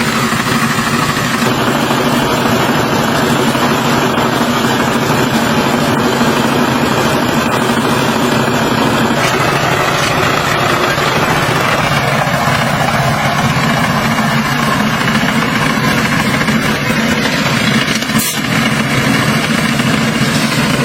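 Tractor engine running steadily under load, with a brief dip in level near the end.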